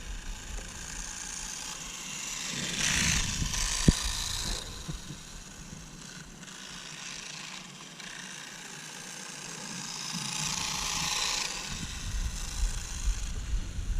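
Kraft Elect Rider RC motorcycle, its brushed electric motor whirring and tyres hissing on asphalt, swelling up and fading away twice as it passes, with a single sharp click during the first pass.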